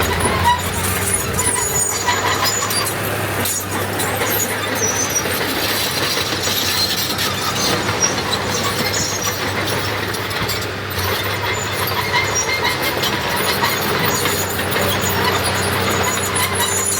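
Diesel engines of heavy earthmoving machinery, dump trucks and a small D21 bulldozer, running steadily with a low drone and scattered high squeaks.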